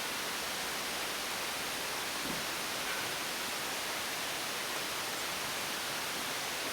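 Steady, even hiss of background noise, with a couple of very faint small ticks about two to three seconds in.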